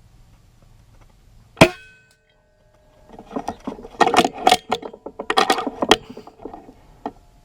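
A single sharp air rifle shot about one and a half seconds in, with a brief ring after it. About three to six seconds in comes a run of clattering metallic clicks.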